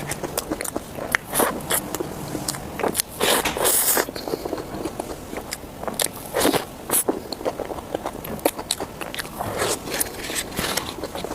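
Close-miked eating: a person biting and chewing food, with many sharp, irregular crackling crunches.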